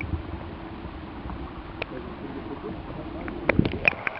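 Steady rush of flowing creek water, with a few short sharp knocks or splashes that bunch together near the end.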